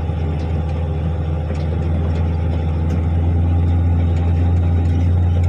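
Articulated dump truck's diesel engine running with a steady low drone, getting a little louder about three seconds in.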